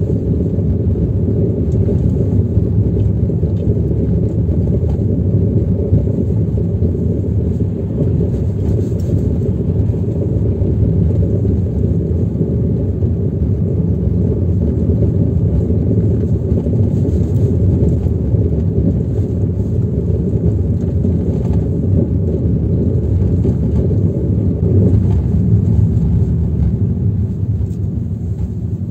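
Chevrolet Aveo T300 driving over a rough road: a continuous heavy rumble from the tyres and front suspension, with a dull drumming rattle in it. The rattle comes from the front brake calipers with their pads rocking on worn mounting or guide bolts, and it goes away when the brake pedal is pressed.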